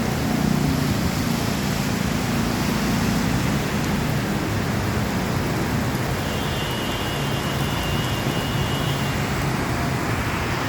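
Heavy rain pouring down steadily, with a low steady hum underneath and a faint high whine midway through.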